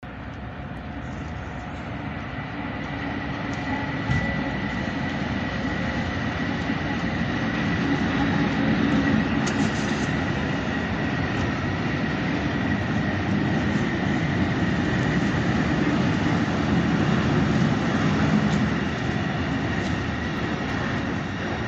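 Freight train of tank wagons rolling past: a steady rumble and clatter of wheels on the rails that builds over the first several seconds. A thin, high steady whine sits over it early on.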